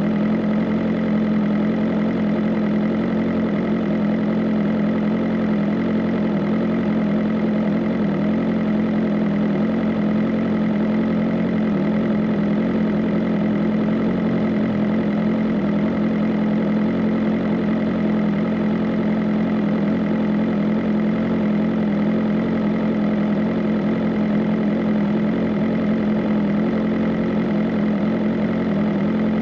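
BMW M 1000 RR superbike's inline-four engine running at a steady, unchanging pitch, without revving up or down.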